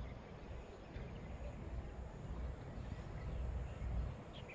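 Outdoor ambience: an uneven low rumble, like wind on the microphone, with a few faint bird chirps, two of them near the end.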